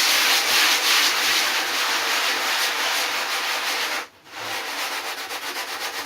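Sandpaper on a sanding pad rubbed back and forth over the cured foam fill and wooden stringer of a surfboard repair, a continuous rasping hiss. It stops briefly about four seconds in, then resumes as quicker, even strokes of about five a second.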